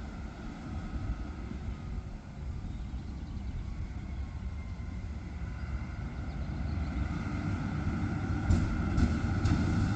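A train approaching: a low rumble that grows steadily louder, with a steady whine getting stronger in the second half and a few clicks near the end.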